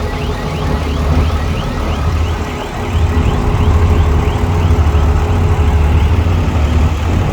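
Heavy diesel machinery, a dump truck or bulldozer, running with a deep rumble that gets louder about three seconds in. A repeating high chirp, about three a second, sounds over it and fades out around the middle.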